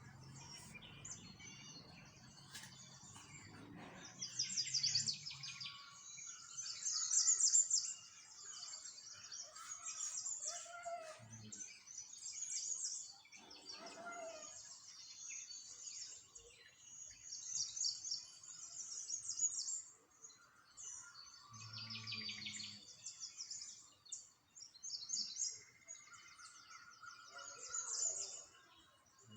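Many small songbirds chirping and trilling together in a dense, overlapping chorus of rapid high-pitched chirps. Louder bursts come and go every few seconds.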